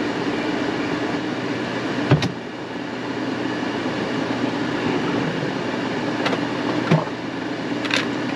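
A steady mechanical hum, like a running fan, with a sharp click about two seconds in and two lighter clicks near the end.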